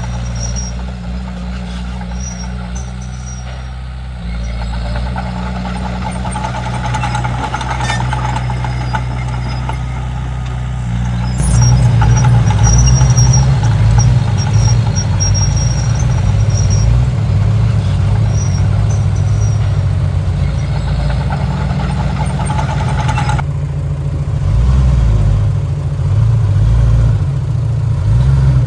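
Komatsu D31P bulldozer's diesel engine running steadily, growing louder about eleven seconds in as it is worked harder.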